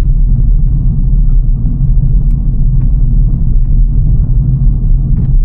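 Loud, steady low rumble of a car driving on the road, heard from inside the car.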